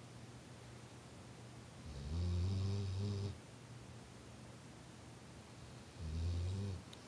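A sleeping dog snoring: two low snores, a longer one about two seconds in and a shorter one near the end.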